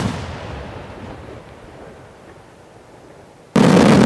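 Aerial firework shells bursting: a boom at the start whose echoing rumble fades away, then about three and a half seconds in a much louder sudden burst that rolls on and slowly dies down.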